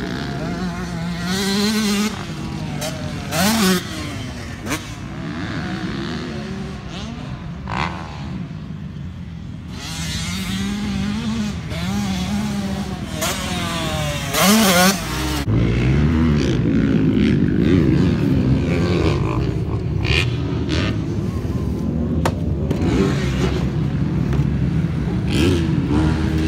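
Dirt bike engines revving up and down over and over, the pitch rising and falling every second or two. The sound gets louder and fuller about halfway through.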